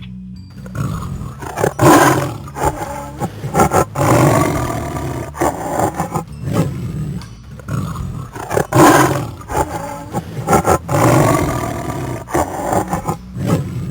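A big cat roaring: a run of loud, deep roars with shorter grunts between them, the strongest about two seconds in and again about nine seconds in.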